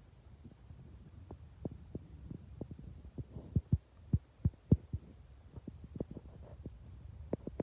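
A series of soft, irregularly spaced low thumps and knocks, a few a second, over a faint low hum.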